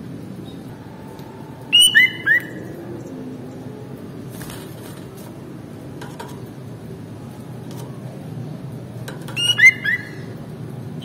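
Sooty-headed bulbul calling: two short phrases of a few quick, downward-slurred whistled notes, one about two seconds in and one near the end, over steady low background noise.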